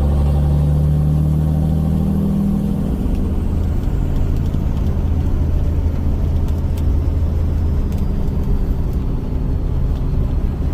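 5.9 Cummins turbo-diesel in a Ram 3500 running under way through a 5-inch axle-dump exhaust: a deep, steady drone that is strongest for the first few seconds, then eases to a steady rumble. The turbo whistle is hardly heard over it, which the owner puts down to the exhaust being dumped under the bed.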